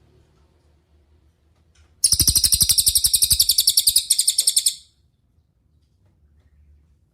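Cililin bird singing a fast, high-pitched trill of rapidly repeated notes, lasting nearly three seconds with a short break just before the end.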